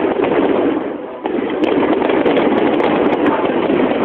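Steady hubbub of a large outdoor crowd, with a few faint, sharp firework cracks.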